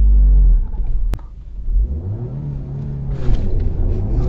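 Stage 1 tuned 2009 Audi A5 2.0 TFSI quattro turbo four-cylinder held loud at launch-control revs, then launching hard. A sharp click comes about a second in, and the engine note then climbs in pitch under full acceleration, dipping once and climbing again.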